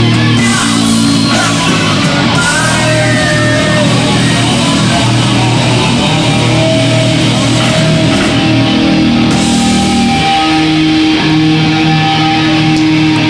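Hardcore band playing live, loud and unbroken, led by distorted electric guitars over the full band.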